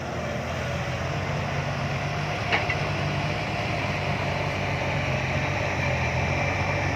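Heavy diesel engine running steadily under load, growing slightly louder, with a single sharp click about two and a half seconds in.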